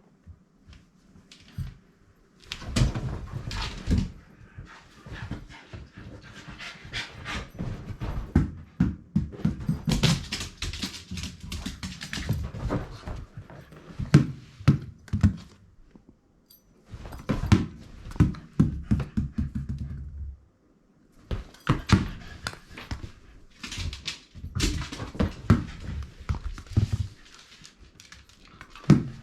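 Shiba Inu playing with a ball: irregular thumps and clicks on the floor in bursts, with panting, broken by brief pauses.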